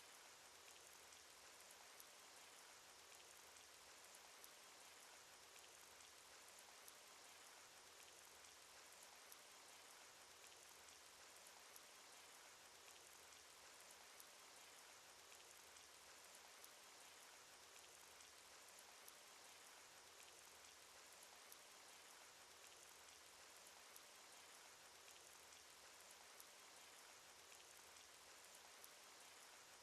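Faint, steady cartoon rain sound effect: a continuous soft hiss of rainfall with scattered tiny drop ticks.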